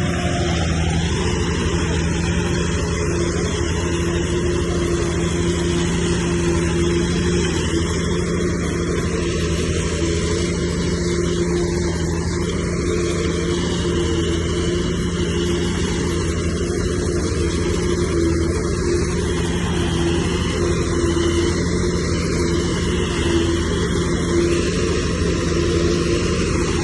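Heavy diesel engine of earthmoving machinery running steadily with a constant low hum and no change in pitch.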